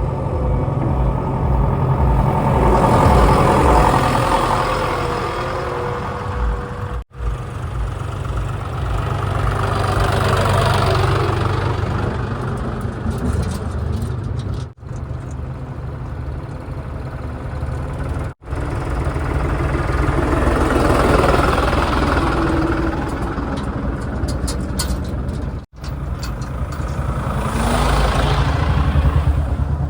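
Heavy diesel engines running, swelling louder and easing off every few seconds as they work. The sound drops out abruptly four times.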